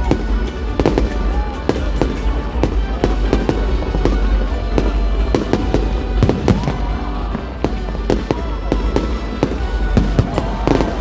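Fireworks display bursting and crackling in rapid succession, many sharp bangs a second, over music playing in the background.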